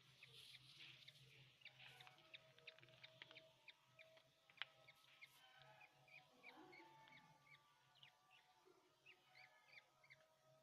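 Many budgerigars in a colony chattering at once: quick, short chirps and warbling notes overlapping continuously, heard faintly.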